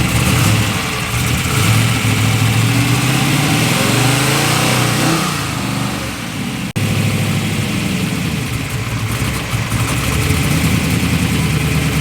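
Loud truck engine running, its revs climbing from about four to six seconds in. The sound cuts out for an instant near the seven-second mark, then the engine runs on steadily.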